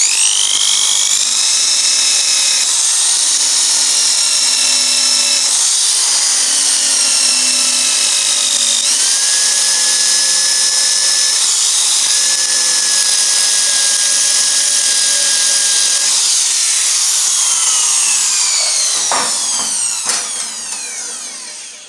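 Rotary wire brush on a power tool, spinning against corroded aluminium: a high whine over a harsh scratching hiss, its pitch shifting as the brush is pressed on and eased off. In the last few seconds it is let go and winds down.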